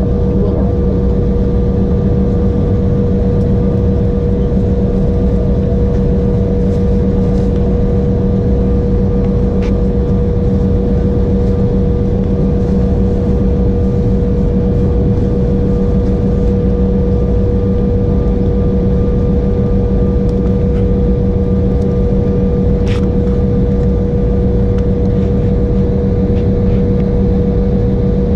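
Inside the cabin of an Embraer E175, the General Electric CF34 turbofan engines and cabin air run at a constant setting: a loud, even drone with two steady hums. There is no rise in pitch, so the engines are not spooling up for takeoff.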